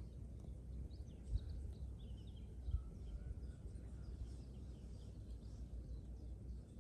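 Faint, short, high chirps of small birds scattered over a steady low rumble, with two brief low thumps, about a second and a half in and near three seconds.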